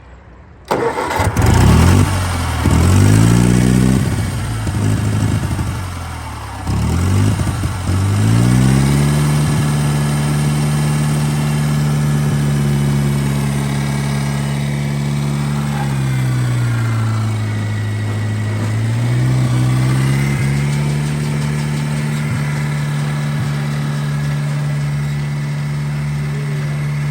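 A Wisconsin gas engine on a New Holland 500 hay baler starts about a second in. Its speed surges up and down unevenly for several seconds, then it settles into a steady run. Around the middle it slows briefly and then picks back up.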